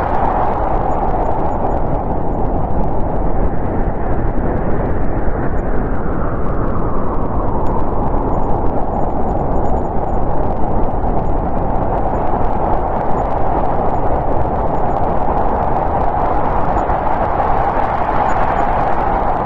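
Winter storm wind blowing steadily, a dense rush with a whistling band that eases about a third of the way in and swells back up toward the end.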